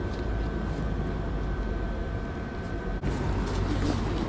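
Steady low background rumble like distant traffic, with a faint high steady whine that cuts off about three seconds in.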